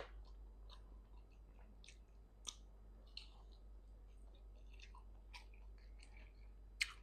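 A person eating vegetable soup: quiet chewing with soft mouth clicks at irregular moments, and one sharper click near the end.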